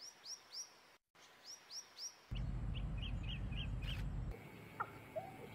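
Birds chirping: short high chirps that sweep downward, in two groups of three, then a quicker run of lower chirps over a low rumble, and a few lower calls near the end.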